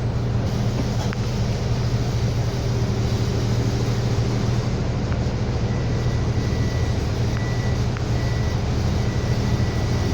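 City bus engine running steadily with a continuous low hum, heard from inside the cabin. In the second half a thin high tone sounds in short stretches with brief gaps.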